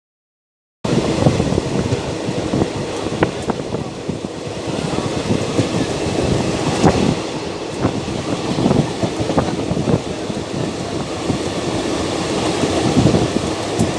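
Silent for the first second, then the sound begins abruptly: a passenger train running at speed, heard from on board, a loud steady rumble of wheels on rail with scattered sharp clanks.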